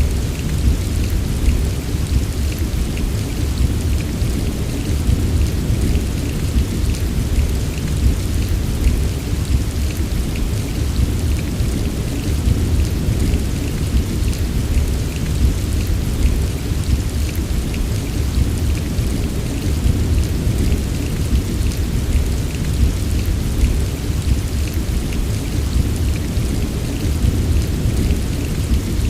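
Heavy rain falling steadily: a dense patter of drops over a deep, continuous low rumble.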